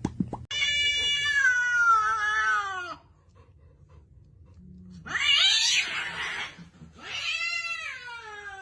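A cat meowing in three long drawn-out calls, each sliding down in pitch; the second, about five seconds in, is harsher and more like a yowl.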